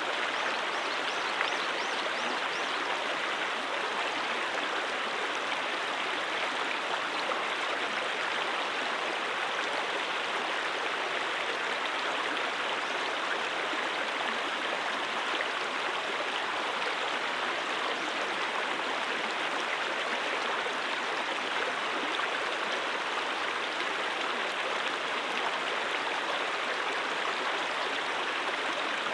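Brook water flowing, a steady, even rushing and babbling with no breaks.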